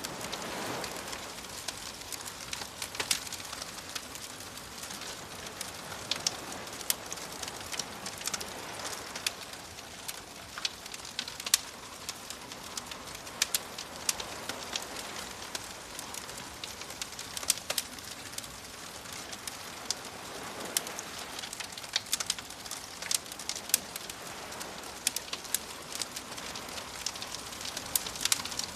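Bonfire crackling, with sharp pops scattered irregularly throughout, over the steady hiss of gentle waves washing in, which swell a little near the start and again about two-thirds of the way through.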